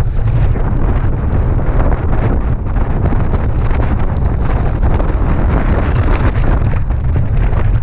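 Wind buffeting the microphone over a constant low rumble of travel along a road, with many small knocks and clicks scattered throughout.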